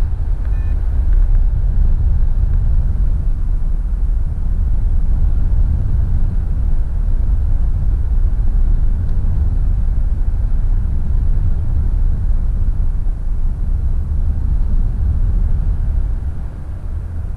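Wind rushing over a GoPro Hero5's microphone in paragliding flight: a loud, steady low rumble, damped by a Rode Dead Kitten furry windscreen, easing off a little near the end.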